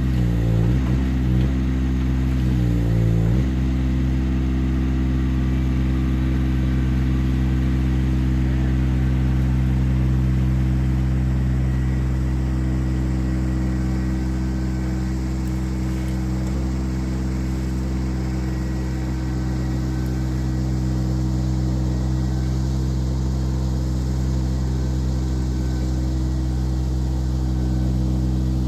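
Engine running steadily at high speed. Its pitch dips briefly twice in the first few seconds.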